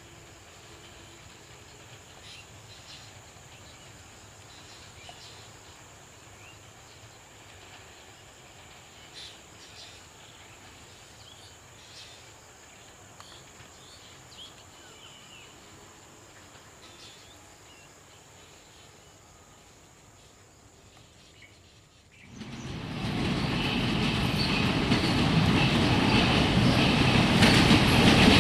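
Faint outdoor ambience with a steady high whine and a few short chirps. Near the end a diesel-hauled broad-gauge passenger train cuts in suddenly and passes close, its rumble and clattering wheels growing louder.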